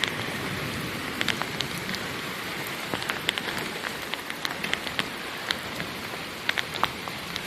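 Steady rain falling, a soft even hiss with scattered sharp drops ticking on nearby surfaces.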